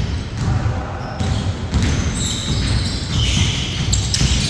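Basketball bouncing on a hard indoor court, repeated dull thuds during play.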